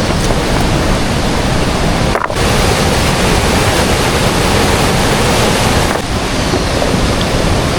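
Loud, steady rush of river water flowing close to the microphone.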